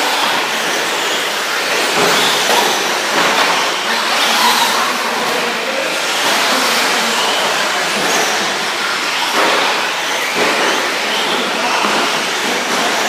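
Several electric 1/10-scale 4WD short course RC trucks racing, their motors and drivetrains whining up and down in pitch over a dense, steady noise.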